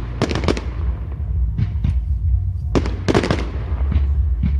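Fireworks going off: a cluster of crackling bangs just after the start, a couple of single pops in the middle and a denser volley of cracks about three seconds in, over a steady low rumble.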